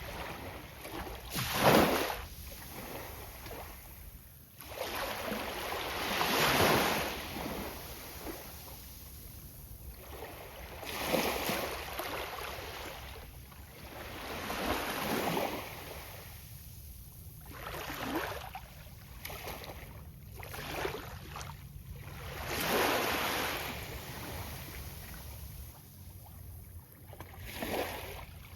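Sea of Japan surf breaking on a sandy beach, one wave every few seconds, each a swell of rushing noise that fades back between breaks. The break about 2 seconds in is the loudest.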